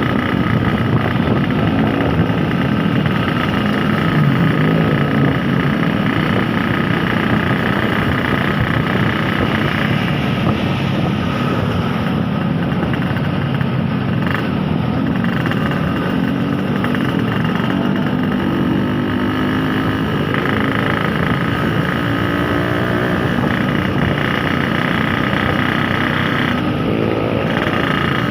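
Yamaha RX-King's two-stroke single-cylinder engine running while the motorcycle is ridden on the road, its pitch rising and falling with the throttle several times. Steady wind and road noise run underneath.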